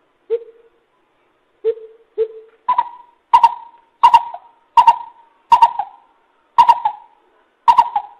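Coucal calling: three low hoots, then a run of seven louder, higher-pitched notes about two-thirds of a second apart.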